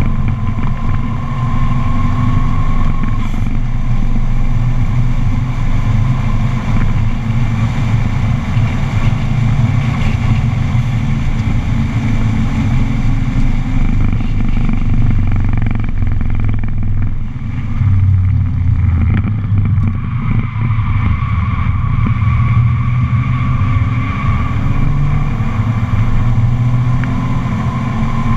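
Subaru's flat-four engine running hard under load, heard from inside the car's cabin at speed on track. Twice, about two-thirds of the way through, the engine note dips briefly before picking up again.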